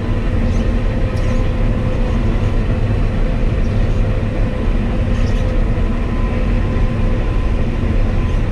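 Claas Lexion 760 combine harvester running steadily at work, a constant low rumble with a steady whine on top.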